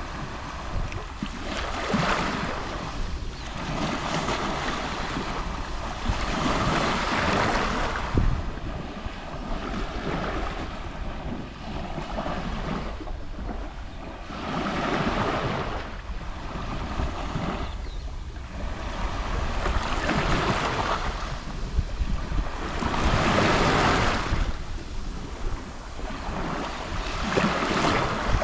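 Small sea waves lapping on the shore, a wash of water that swells and fades every few seconds, with wind buffeting the microphone.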